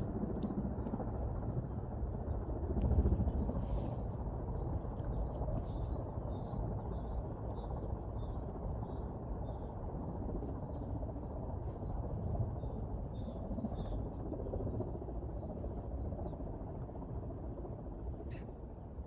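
Small songbirds chirping in repeated short high notes throughout, over a steady low background noise of the open countryside.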